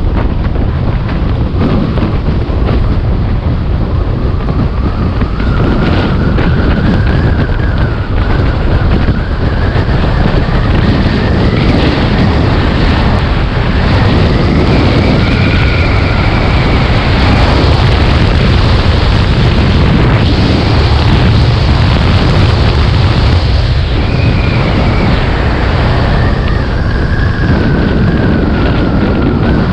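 Heavy wind rumble over the microphone while riding the SVM Prana electric motorcycle, with a faint whine from its electric motor that rises and falls in pitch as the bike speeds up and slows.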